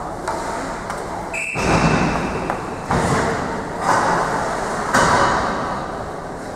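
Hockey play in a rink. About a second in there is a brief high steady tone, then loud thumps roughly once a second, from puck, sticks and players against the boards, echoing in the hall.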